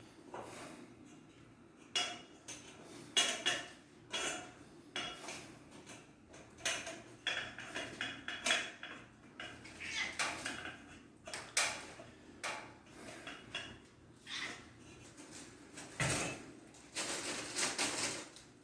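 Small metal parts clinking and rattling against one another in quick, irregular knocks, with a denser clatter near the end, as ceiling fan hardware is handled.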